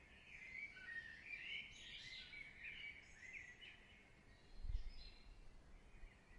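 Faint birdsong, many short chirping notes one after another, over a soft steady hiss. A short low thud comes about two-thirds of the way in.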